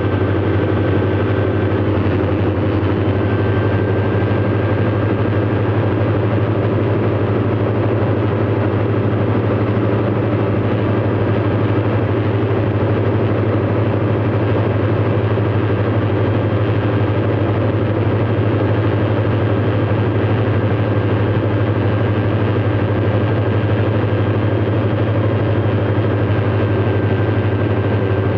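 Light aircraft engine running steadily at a constant setting, a deep even drone with no change in pitch.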